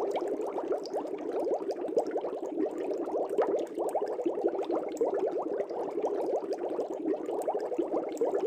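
Aquarium air bubbles rising through the tank water in a continuous dense stream of small bubbling pops.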